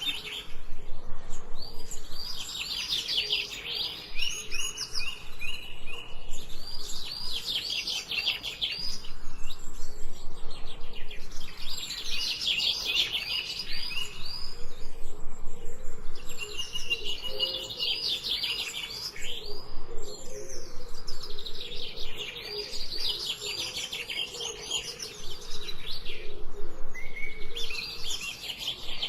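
Several songbirds singing, with bursts of rapid, high chirps and trills repeating every few seconds.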